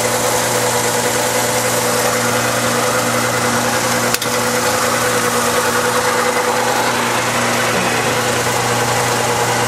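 A 2001 Saturn's 1.9-litre four-cylinder engine idling steadily, heard from underneath the car. There is a single sharp click about four seconds in.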